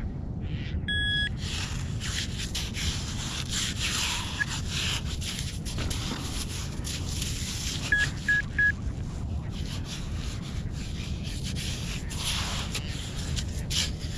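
Minelab Vanquish 440 metal detector sounding its target tone: one held beep about a second in, then three quick beeps of the same pitch near the end of the second half. Underneath runs a steady rushing noise with scrapes and knocks from digging in wet sand.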